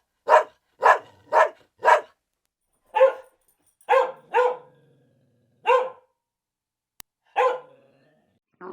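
A dog barking: about nine short, single barks at an irregular pace, some in quick pairs, with a pause of a second or more between groups.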